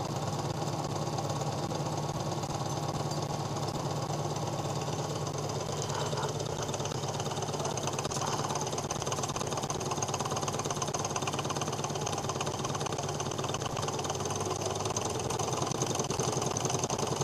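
Homemade Ross-yoke Stirling engine running steadily, with a fast, even mechanical clatter over a low hum.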